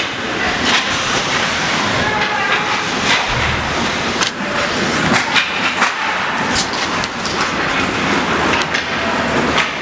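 Ice hockey game sound: a steady scraping hiss of skates on the ice, broken by frequent sharp clacks of sticks and puck.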